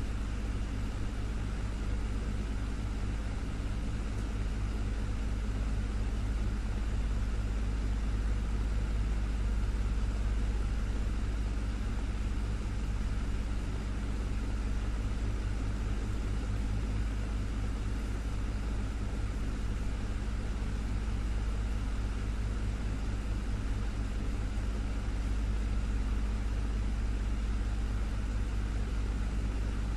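Desktop fan running steadily: a constant low hum with an even rush of moving air over it, unchanging throughout.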